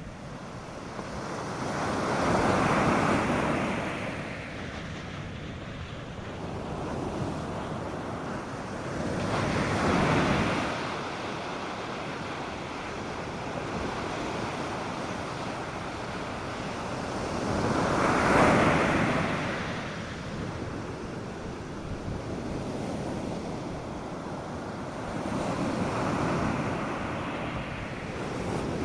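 North Sea surf breaking on a sandy beach: a steady wash of water with four swells, each building and fading over a few seconds, the loudest a little past the middle. Wind runs under it, with some wind noise on the microphone.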